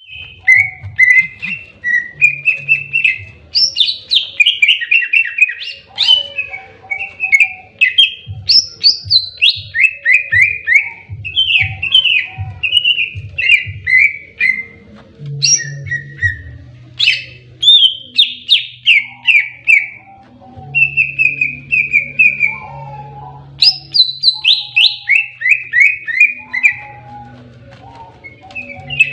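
Green leafbird (cucak ijo) singing its aggressive 'fighting' song: loud, unbroken phrases of rapid whistled notes, many in quick descending runs.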